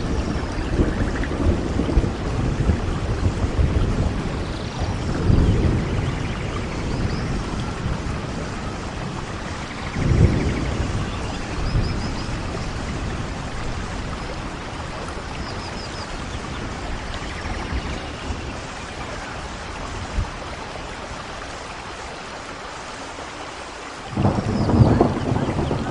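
Steady rain with thunder. Low rumbles swell about five and ten seconds in and again near the end.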